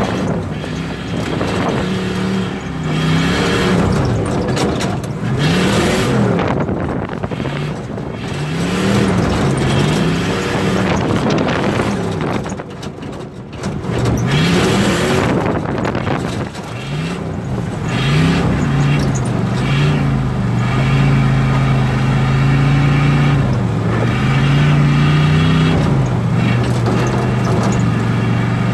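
Turbocharged small-block Chevy V8, heard from inside the truck's cab, revving up and falling back again and again as it is driven hard. It dips briefly about halfway through, then holds higher revs, more steadily, toward the end.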